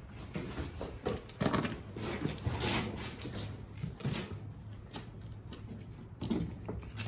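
Irregular knocks, scrapes and rustling of junk being handled and moved.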